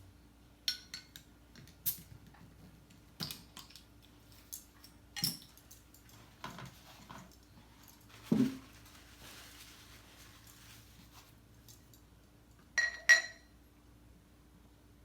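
Cutlery and dishes clinking and tapping at intervals during a meal. A heavier knock comes just after eight seconds in, and near the end a pair of ringing clinks is the loudest sound.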